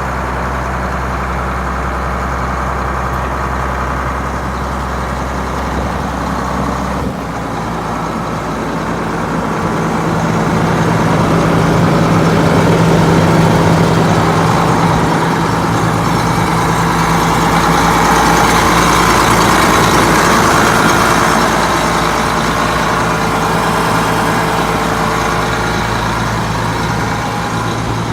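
Diesel engine of a 1990 Case IH 7140 MFWD tractor running steadily. Its low note changes about seven seconds in, and it grows louder through the middle before settling slightly.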